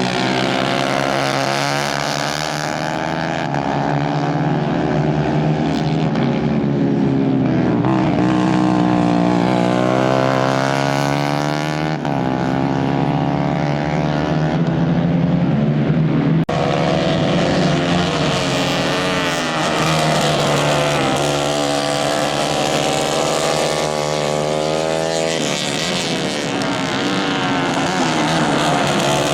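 Several 150 cc racing kart engines running together, their pitch rising and falling over and over as the karts rev up and back off through the corners.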